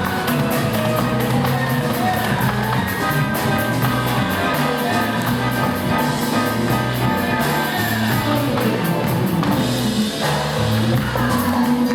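Live band music with a voice singing over steady, driving percussion.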